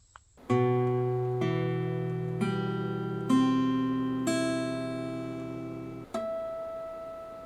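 Acoustic guitar playing a short, slow phrase: about six chords or notes struck roughly a second apart, each left to ring, the last one ringing out and fading.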